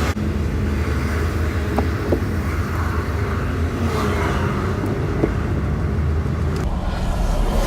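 Steady low rumble of a tow vehicle driving along the road, engine and tyre noise, while it tows a loaded boat trailer.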